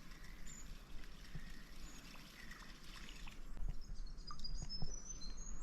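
Quiet waterside ambience with scattered short, high bird chirps, a quick run of high peeping notes near the end, and a few soft clicks.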